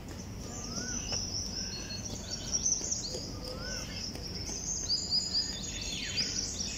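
Small birds chirping, with many short, high, quick chirps and a couple of brief rising-and-falling whistles, over steady background noise.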